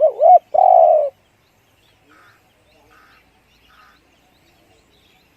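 Spotted dove cooing close up: two quick rising-and-falling notes followed by a longer held coo, about a second in all.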